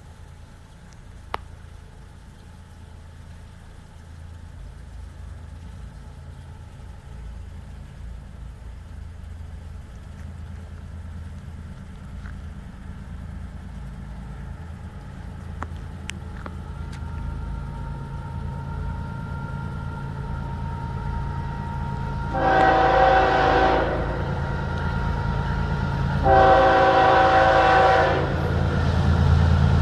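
Florida East Coast Railway diesel locomotive approaching, its low engine rumble growing steadily louder. It sounds its horn in two long blasts, about 22 and 26 seconds in, with a short blast beginning at the very end.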